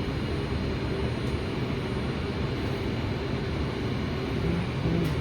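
Steady hum and rush of noise inside a VTA Kinki Sharyo light rail car.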